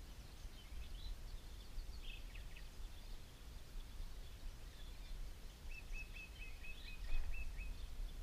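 Small birds chirping against a low, steady rumble of outdoor background noise. Near the end one bird gives a quick run of about nine identical short notes, about five a second.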